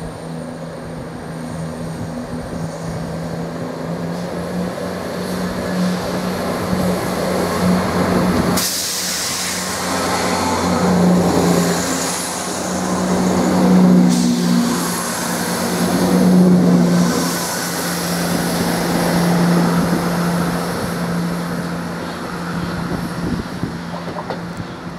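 Chiltern Railways Class 168 diesel multiple unit running past along a station platform. Its underfloor diesel engines give a steady hum that builds as it comes in, with a sudden rush of wheel and air noise about eight and a half seconds in as the front passes. The noise swells and eases in waves as the cars go by, then fades as it draws away near the end.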